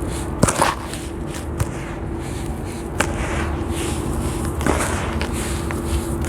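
Crispy sand blocks crumbling: a gritty crackle with many sharp clicks and a few louder crunches, over a steady hum.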